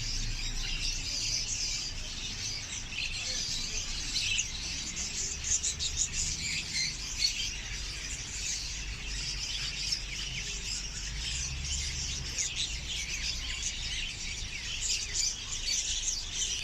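Many caged small birds chirping and chattering at once, a dense, continuous twittering, over a steady low hum.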